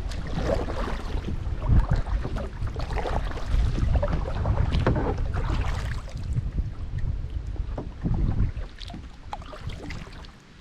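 Wind buffeting the microphone in a heavy low rumble, with irregular water splashes and sloshing around a kayak; the wind eases in the last couple of seconds.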